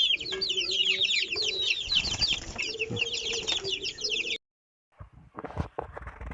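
Parrot Beak Aseel chickens calling: a dense chorus of high, short, falling peeps, like chicks, over lower hen clucks. It cuts off suddenly about four seconds in, and after a brief gap comes a series of sharp knocks and taps.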